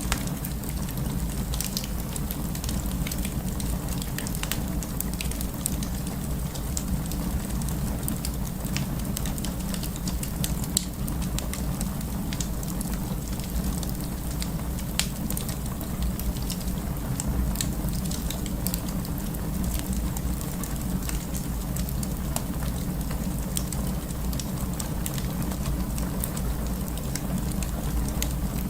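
Wood fire burning, with frequent small crackles and pops from the burning wood over a steady low rumble.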